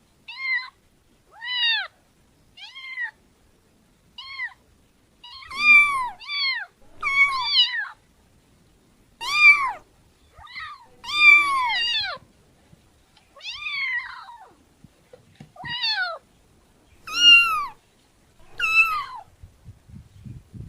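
Domestic cat meowing over and over: about fifteen separate meows with short gaps between them, each rising and then falling in pitch.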